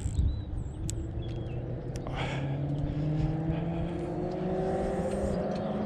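Wind buffeting the microphone in a low rumble, with a distant engine droning under it, its pitch rising slowly from about a second in.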